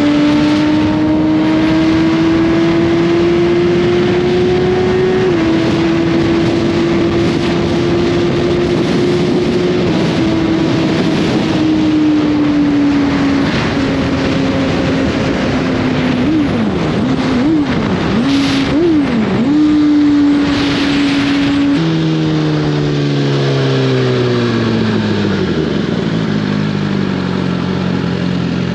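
2021 Suzuki GSX-R1000's inline-four engine through an Austin Racing slip-on exhaust, under way: revs climbing slowly, a gear change about five seconds in, a steady stretch, then several quick throttle blips. Over the last few seconds the revs fall in steps as it slows, with wind noise throughout.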